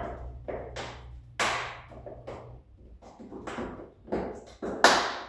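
A string of sharp knocks and clatters, about seven, from car parts and trim being handled and pried during a teardown; the loudest comes just before the end. A low hum runs underneath and stops about halfway.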